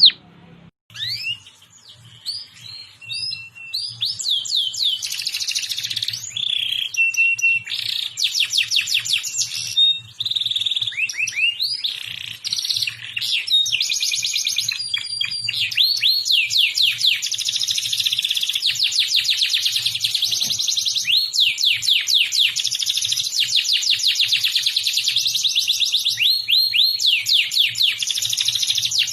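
Domestic canary singing in full voice: fast trills and quick rising sweeps. Its phrases are short and broken for the first few seconds, then run on almost without a pause.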